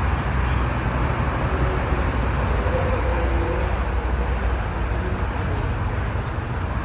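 Steady traffic noise: a continuous low rumble with a wash of road noise, with faint voices in the background.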